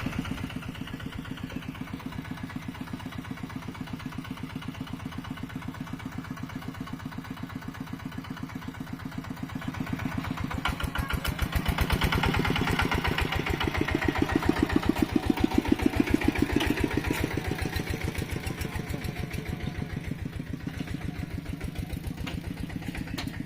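Mini tractor's engine running with an even, rapid pulse, getting louder through the middle and then easing back.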